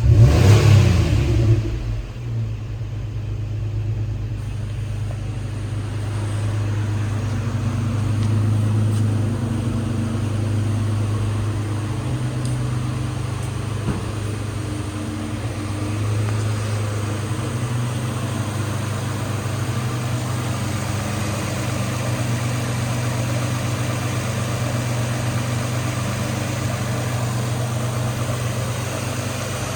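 2009 Nissan Murano's 3.5-litre V6 running: a brief rise in revs in the first second or two, then a steady idle.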